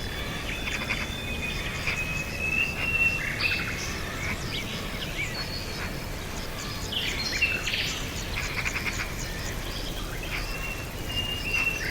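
Several small birds chirping and calling, with short chirps, quick trills and a few brief whistled notes coming at irregular intervals over a steady low background noise.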